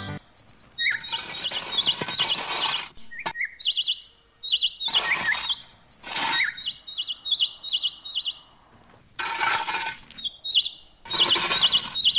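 Small metal rake scraping through fine sand in a series of strokes with pauses between them. Birds chirp repeatedly through it.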